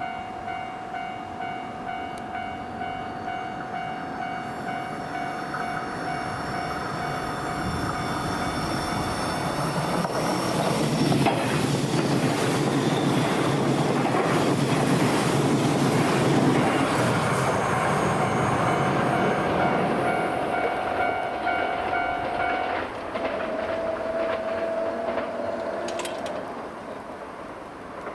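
A JR 381 series limited express electric train passes a level crossing at speed: its wheels clatter rhythmically over the rail joints, building to a peak in the middle and fading away. Throughout, the crossing's electronic alarm bell keeps ringing with a steady, evenly pulsing tone, which stops near the end once the train has gone.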